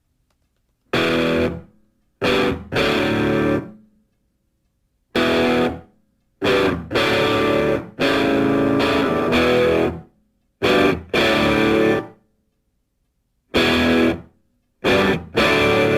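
Music: electric guitar chords struck in short, loud bursts with complete silences between them, some with distortion.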